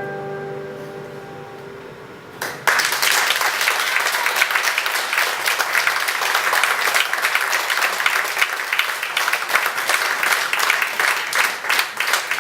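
The last held note of a two-voice operatic duet fades away, then audience applause breaks out suddenly under three seconds in and continues steadily.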